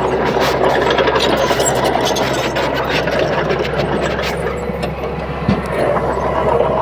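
Bulldozer's diesel engine running steadily under load, with many sharp clicks and clanks over it.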